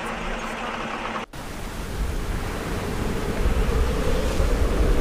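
Blizzard wind rushing and buffeting on the microphone, a steady noisy roar with a deep low rumble; it cuts out for an instant about a second in and comes back a little louder.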